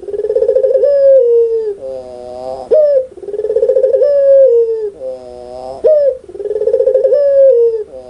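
Puter pelung (domestic ringneck dove) giving its loud, rolling laughing coo, repeated about every three seconds. Each call is a long pulsing note that ends with a sharp upward slur.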